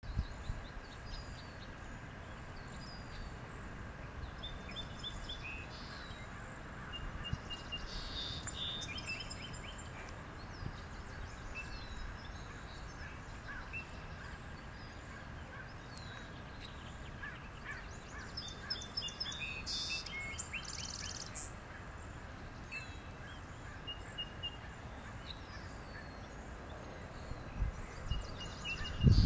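Scattered short, high bird chirps and peeps over steady low outdoor background noise.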